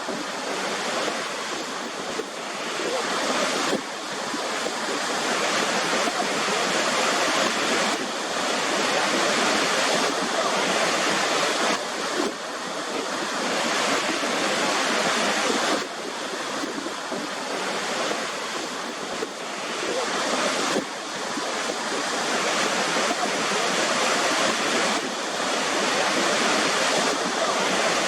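Waterfall: the steady rushing hiss of falling water, with little deep rumble. It dips briefly in level a few times.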